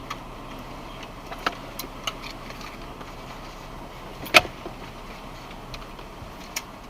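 Honda Crosstour idling steadily, heard from inside the cabin, with scattered small clicks and one sharper click about four seconds in.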